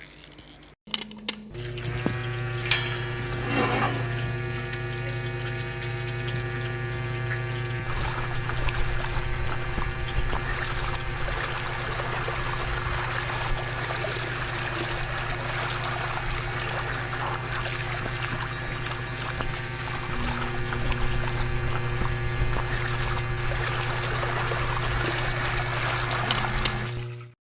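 Small water pump running with a steady hum. Water pours and splashes from about eight seconds in.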